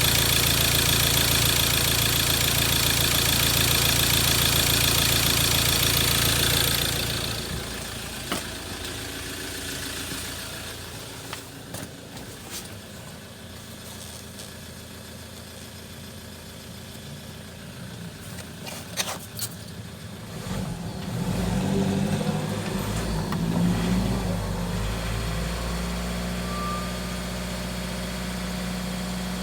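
Mazda BT-50 2.2-litre diesel engine running at raised revs, dropping to a much quieter idle about seven seconds in, with a few sharp clicks, then running louder again from around twenty-one seconds.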